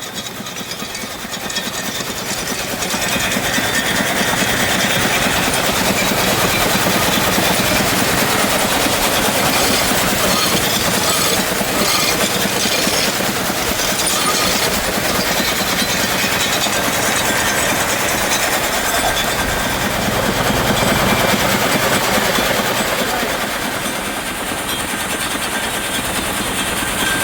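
Motorized shaker table running steadily, its vibrating screen rattling a load of dirt and gravel, with wind buffeting the microphone.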